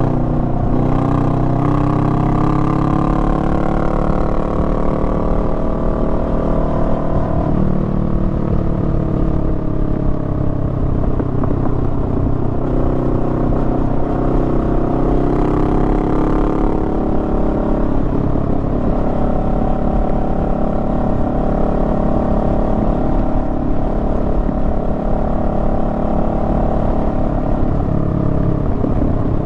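Honda Rebel 500's 471 cc parallel-twin engine running under way, its pitch falling and rising with the throttle, with a sudden drop about seven seconds in and a climb again around the middle.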